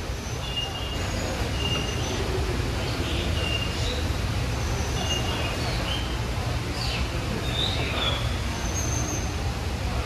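Several birds in a conservatory aviary giving short, high whistled chirps on steady pitches, with a few quick downward-sweeping calls, over a steady low rumble.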